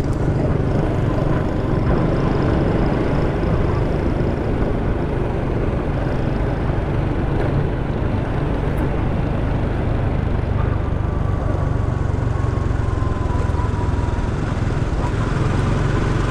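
Motorcycle riding through city traffic, heard from the rider's camera: a steady, dense rumble of engine and road noise. About ten seconds in, a faint thin whine slowly falls in pitch.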